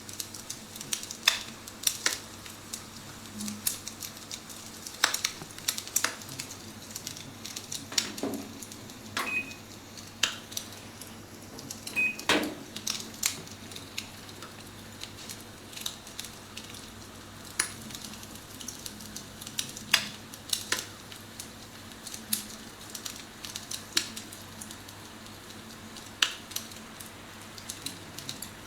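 Recorded wood-fire crackling played from an iPhone app set inside an electric fireplace: irregular pops and snaps at uneven intervals, over a low steady hum.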